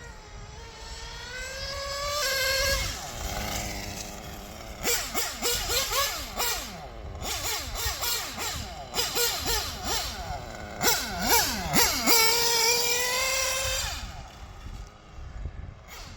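O.S. R21 GT two-stroke nitro engine of a 1/8-scale RC GT car running under throttle: the revs climb over the first couple of seconds, then swing up and down quickly with throttle changes through the middle, and climb again near the end.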